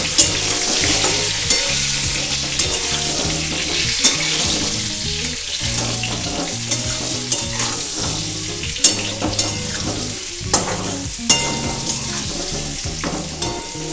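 Whole peeled pointed gourds sizzling steadily as they fry in hot mustard oil in a steel kadai. A metal spatula scrapes and knocks against the pan from time to time as the gourds are turned.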